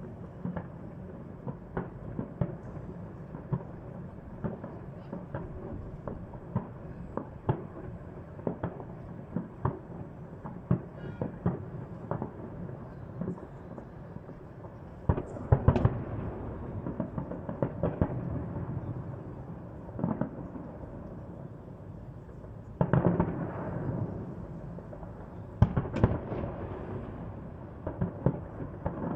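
Fireworks display: a continual run of shell bursts and crackling pops, with louder clusters of bangs just past halfway and twice more in the last third.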